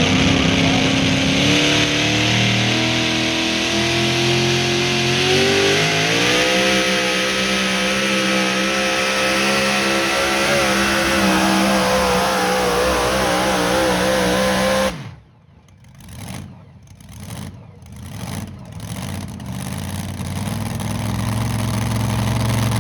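Truck-pull truck's engine at full throttle under the load of the pull, its pitch climbing steadily with a step up about six seconds in. About fifteen seconds in the throttle is chopped suddenly and the engine drops to a low, uneven sound that slowly builds again.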